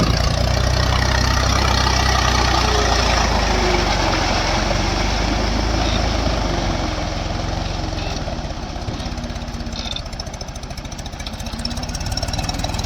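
Mahindra 275 tractor's three-cylinder diesel engine running steadily, easing off a little about halfway through and picking up again near the end.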